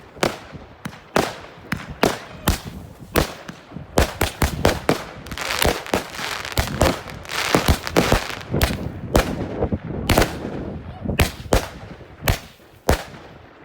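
Fireworks going off: a rapid, irregular string of sharp bangs and crackles, densest through the middle.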